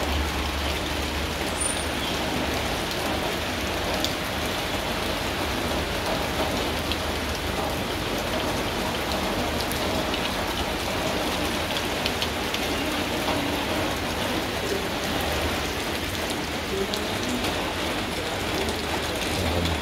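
Light drizzle falling steadily, an even, unbroken hiss of rain.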